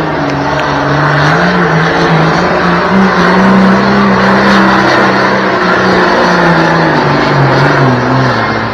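1971 John Deere 4320 pulling tractor's diesel engine running hard under full load during a pull. It is loud and steady, its pitch wavering and dropping toward the end of the run.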